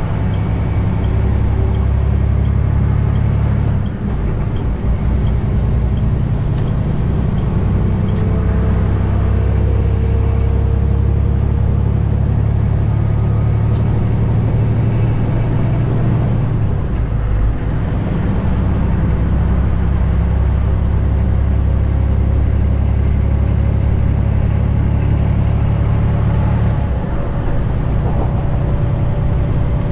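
Detroit DD15 inline-six diesel of a 2021 Western Star 4900 pulling steadily under load. The engine note breaks off briefly three times as the driver shifts up through the 18-speed transmission, and a faint high whine dips with each shift.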